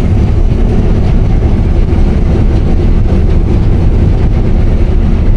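Case IH 8120 combine running steadily while harvesting, a continuous low drone of engine and threshing machinery.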